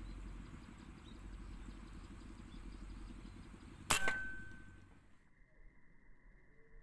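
A single sharp air-rifle shot about four seconds in, followed by a brief ringing tone, over the steady low rumble of an engine running in the background. The rumble cuts off suddenly about a second after the shot.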